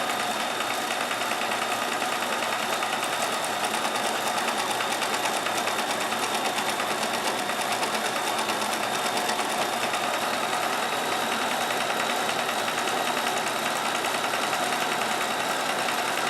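Kenmore 158.1914 sewing machine running steadily while stitching a multi-point zigzag through denim. It makes a rapid, even clatter of needle strokes over a steady motor whine.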